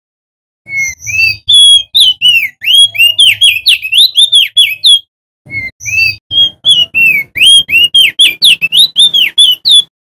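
Male opior jambul (crested white-eye) singing: two long, loud phrases of rapid whistled notes, several a second, each sliding up or down, with a short pause near the middle.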